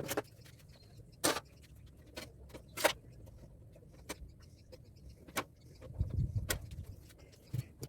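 Sharp metallic clinks and knocks of parts and hand tools being worked while an air-conditioner condenser unit is taken apart for scrap, one every second or so, with a low thud a little after six seconds.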